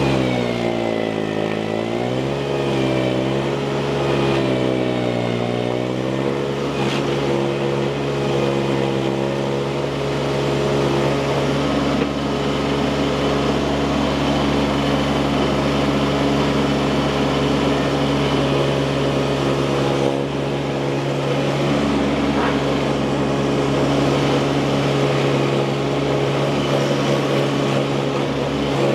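Baumalight mini skid steer's engine running, its pitch dipping and recovering twice in the first few seconds as it takes load, then holding steady.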